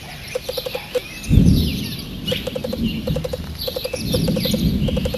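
Birds chirping and calling, among them a call of four or five quick low notes repeated every second or so. Two swells of low rumble come through, the louder one starting about a second in and a second one near the end.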